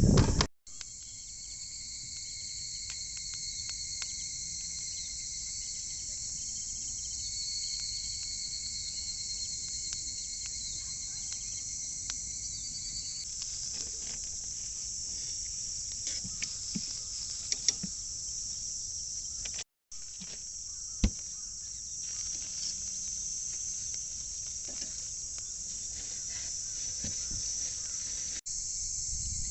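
A steady, high-pitched chorus of insects, with two thin, steady trilling tones through the first half that stop partway through. A few short clicks are heard, and there are two brief dropouts.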